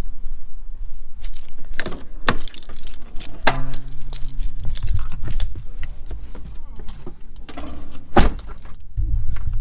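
Car running, heard from inside, a steady low rumble with a string of sharp clunks and rattles, and a brief steady hum about a third of the way in.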